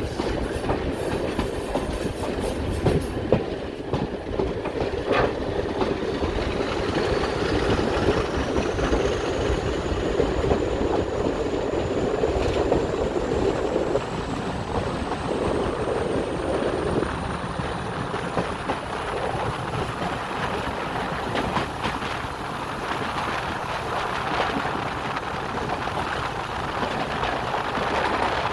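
Diesel-hauled train on a heritage railway running along the line, with a continuous rumble of engine and wheels on rail. A thin high whine rises steadily in pitch through the middle and then holds.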